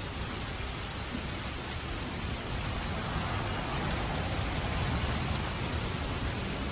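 Steady heavy rain falling on a roof, an even hiss of drops, with a low rumble of distant thunder swelling in the middle and fading again.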